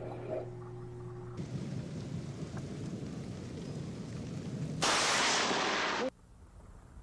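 Thunderstorm with steady rain noise, then a sudden loud burst of thunder from a close lightning strike about five seconds in, lasting just over a second before it cuts off abruptly.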